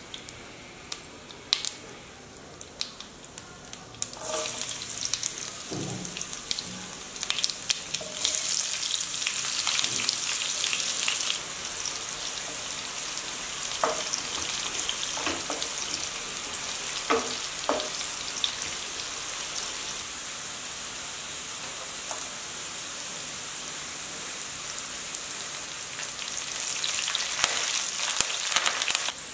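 Tempering frying in hot oil in a pan. For the first few seconds cumin and mustard seeds crackle with sparse sharp pops, then a steady sizzle takes over as sliced onions and garlic fry, stirred with a wooden spatula. The sizzle gets louder near the end, with curry leaves and dried red chillies in the pan.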